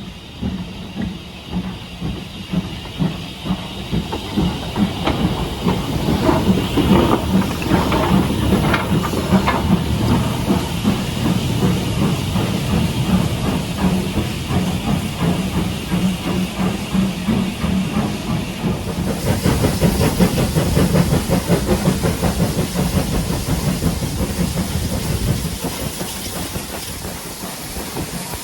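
Steam locomotive working, its exhaust beats quickening as it gets under way, with steam hissing throughout. The hiss grows stronger about two-thirds of the way through.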